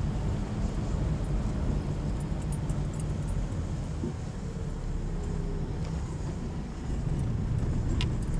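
Vehicle engine idling: a steady low rumble, with a few faint clicks near the end.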